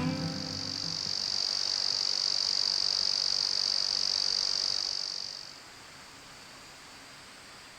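Insect drone in the open air, a steady high-pitched buzz that fades out about five and a half seconds in, leaving faint background.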